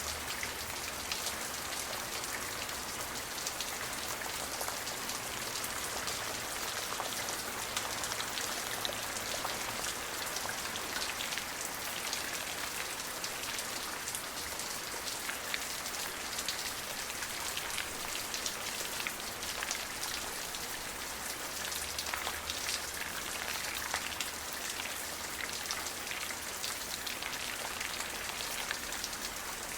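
Steady rain: an even hiss of rainfall with many small drops pattering on a surface.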